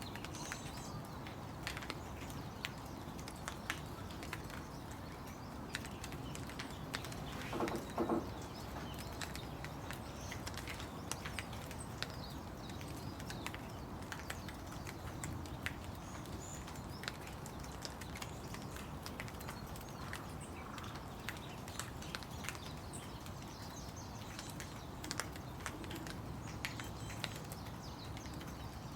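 Steady rain with a scattered patter of individual drops. About eight seconds in there is one short pitched call, and faint bird chirps come and go.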